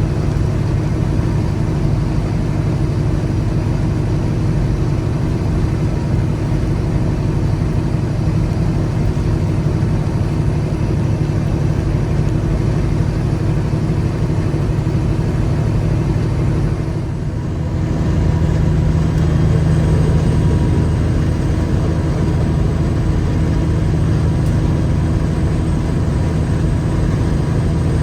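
Peterbilt 359 dump truck's diesel engine running steadily under way with road noise. It dips briefly about two-thirds of the way through, then comes back a little louder.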